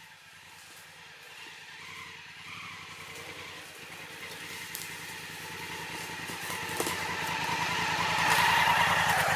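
A motor vehicle's engine approaching, growing steadily louder.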